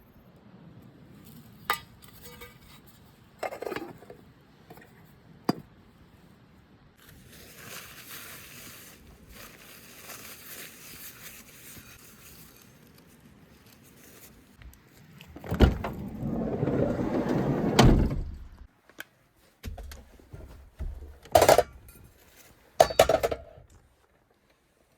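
Metal camp cookware being handled: scattered clinks, scrapes and knocks, with a stretch of soft hiss in the middle and a louder rustling bout, then two sharp metallic hits near the end.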